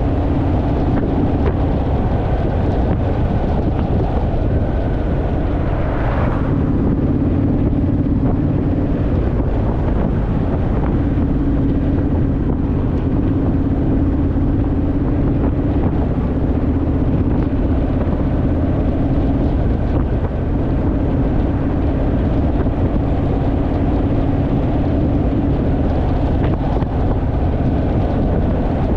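Honda Rebel parallel-twin motorcycle engine running steadily on the road, with wind rushing over the microphone. The engine note briefly shifts a few times.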